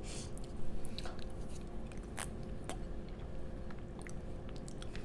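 Close-miked eating of mashed potato: soft wet mouth clicks and smacks while chewing, over a steady low hum.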